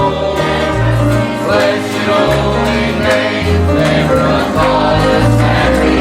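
A group of voices singing a gospel hymn with instrumental accompaniment and a bass line moving under it.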